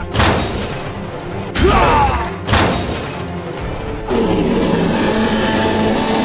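Music with dramatic sound effects: two booming impacts about two and a half seconds apart, the second led in by a short falling swoop, then steadier held music from about four seconds in.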